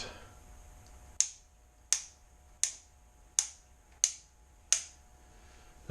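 Six sharp clicks at an even pace, about one every 0.7 seconds, each with a brief ringing tail.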